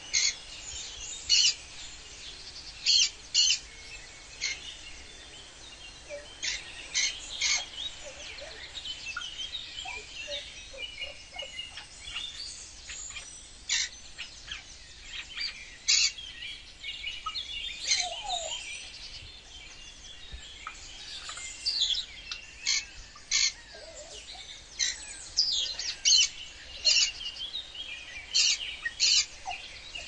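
Wild birds chirping: many short, high calls repeating irregularly, over a faint steady background.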